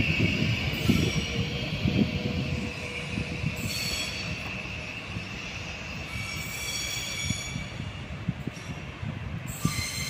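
Train moving through the station with its steel wheels squealing on the rails, several high squealing tones that fade and return, over a low rumble and irregular knocking of wheels on the track. The squeal is strongest at the start, eases off, then comes back around the middle and again near the end.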